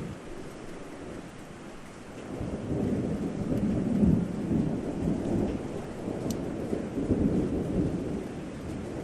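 Steady rain with a long roll of thunder: a low rumble swells about two seconds in, is loudest a couple of seconds later and dies away near the end, over the constant hiss of the rain.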